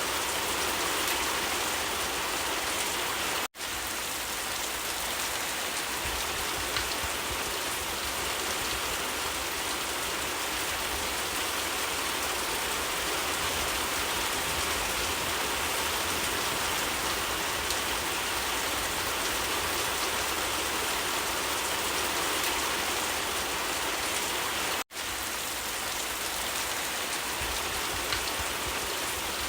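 Steady rain falling, an even hiss of drops on surfaces. It cuts out to silence for a split second twice.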